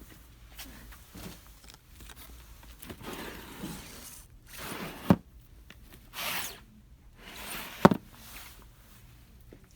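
Packaging and small items being handled, with several rustling, crinkling swells and two sharp knocks, one about five seconds in and one near eight seconds.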